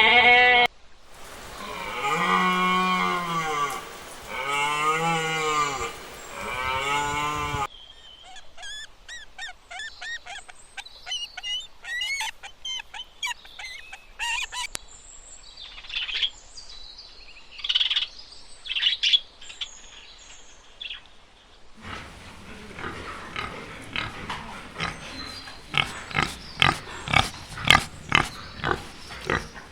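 A run of animal calls from different animals: first three long, pitched, arching calls, then a stretch of short, high chirping calls, then rapid sharp clicking calls in the last several seconds.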